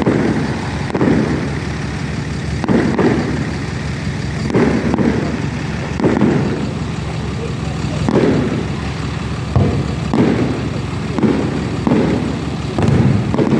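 Fireworks display: shells bursting in a run of sharp bangs, one every second or so, each trailing off in a low boom, over a steady low rumble.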